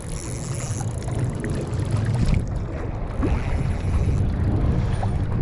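Wind buffeting the microphone, a steady low rumble that grows a little stronger about two seconds in.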